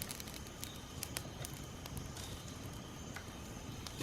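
Small wood campfire of twigs and hardwood branches burning, giving scattered sharp crackles and pops at irregular intervals over a low steady noise.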